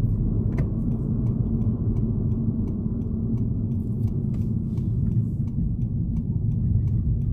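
A car driving with a steady low road-and-engine rumble, and faint light ticks throughout.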